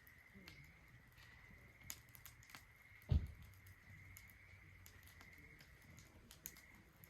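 Wood fire crackling in a Solo Stove Ranger fire pit, with sparse sharp pops and snaps. A single dull low thump about three seconds in is the loudest sound.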